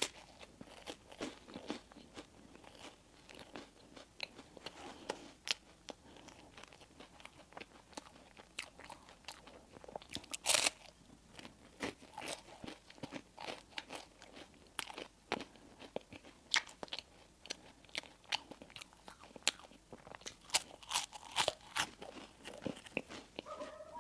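Close-miked eating of baked goods: repeated crunching bites and chewing, a steady string of small crisp crackles with one louder crunch about ten seconds in.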